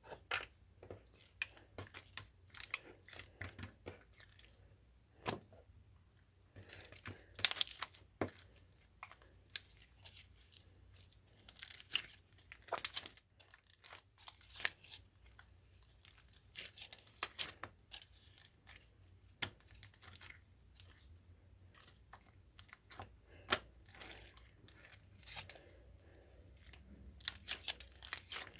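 Irregular close-up crackling and crinkling clicks, coming in denser flurries now and then.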